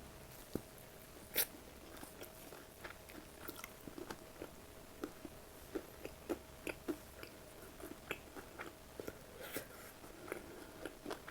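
Close-miked chewing with crisp, crunchy bites, a quick irregular run of wet crackles and clicks, with two sharper crunches about a second in and near the end.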